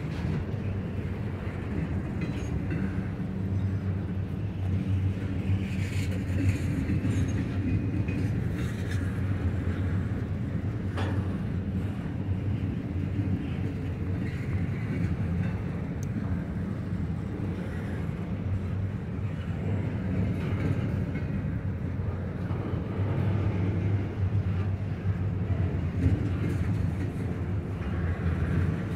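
Intermodal freight train's double-stack well cars and trailer flatcars rolling past: a steady rumble of wheels on rail with faint high squeaks, and one sharp click about eleven seconds in.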